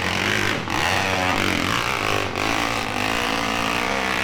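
Motorcycle engine revving hard under heavy throttle, its pitch rising and dipping as it climbs.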